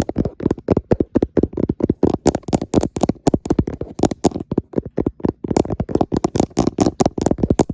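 Fingertips tapping fast on a camera close to the microphone, about six to eight soft, dull taps a second in a continuous run.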